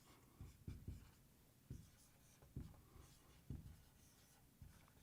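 Faint sounds of writing, with soft low taps roughly once a second, in near silence.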